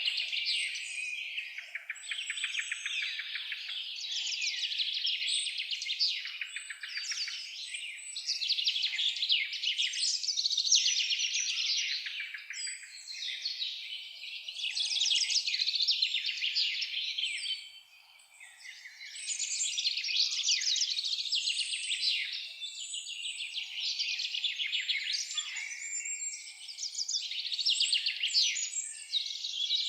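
Many birds singing at once in a dense, continuous chorus of rapid trills and chirps, with a brief lull about eighteen seconds in.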